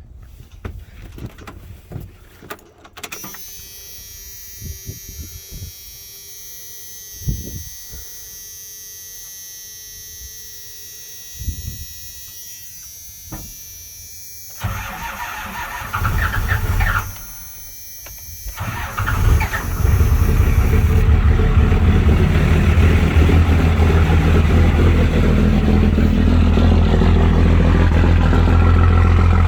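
12-valve Cummins diesel engine cold-started: a few clicks and knocks, a first burst of cranking about fifteen seconds in that stops, then a second crank about nineteen seconds in that catches. It settles into a loud, steady cold idle.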